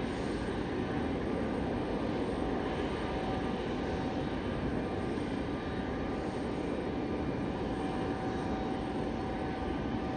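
Airliner engines running with a steady low rumble and a faint steady whine above it, holding level throughout.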